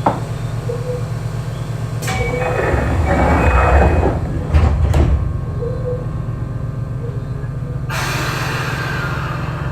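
Inside a Keio 8000 series electric train car at a station stop: the passenger sliding doors working with a rush of air and two sharp knocks about five seconds in, over the car's steady low hum. A sudden burst of air hiss follows near the end.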